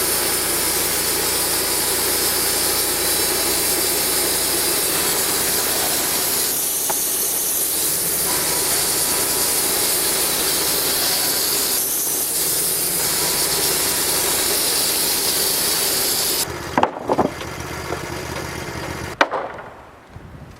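Woodmizer LT28 bandsaw sawmill sawing through a pine log, a loud steady rasp of blade in wood over the engine. About sixteen seconds in the sawing drops away sharply, followed by a few clunks and a quieter run.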